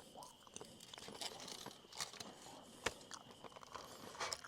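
Faint crunching and rustling with a few sharp clicks, over a faint steady high-pitched tone.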